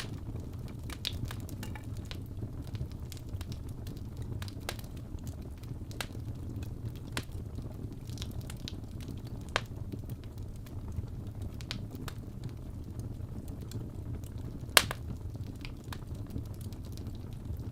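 Crackling fireplace: a steady low rumble of the fire with scattered crackles and pops, one louder pop late on.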